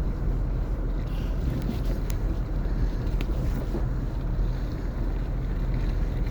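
Subaru driving through deep, slushy snow: a steady low rumble of engine and tyres pushing through the snow, heard from inside the car, with two faint clicks partway through.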